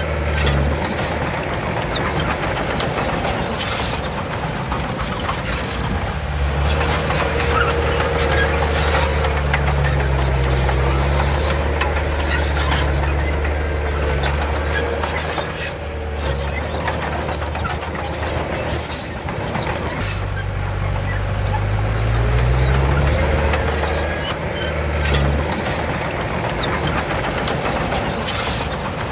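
Komatsu D31 crawler bulldozer's diesel engine working under load while pushing soil. The engine note drops and rises several times as the load changes, with scattered high metallic squeaks over it.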